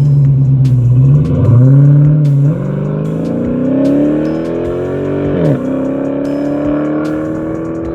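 Dodge Charger SRT8's 6.4-litre HEMI V8 through a JBA cat-back exhaust, accelerating. The pitch climbs steadily, drops sharply about five and a half seconds in at an upshift, then climbs again more slowly.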